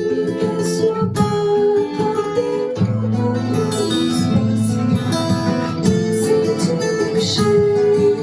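Acoustic guitar playing a chord progression, strummed and picked, with the open G and B strings left ringing over the chord changes.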